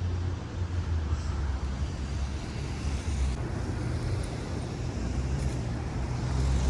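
City street traffic: a steady low rumble of passing cars and other vehicles.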